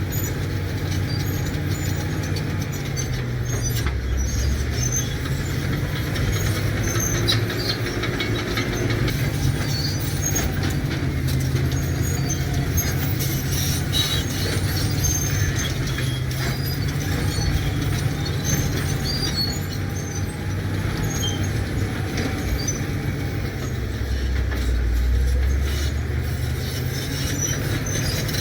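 Caterpillar D7 bulldozer's diesel engine running steadily under working load, its note dropping deeper a few times and swelling near the end. Scattered metallic clinks and squeaks from the steel tracks run over it.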